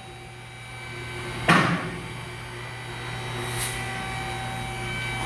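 Workshop background: a steady low hum, with one sharp knock about a second and a half in.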